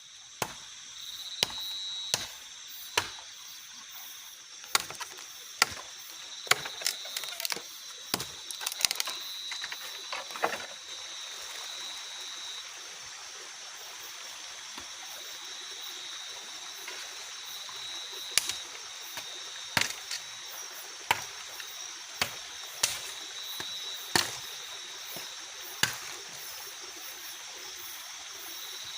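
Sharp knocks of a tool striking wood, coming at irregular intervals and thickest in the first third, over a steady high-pitched insect drone and a light hiss.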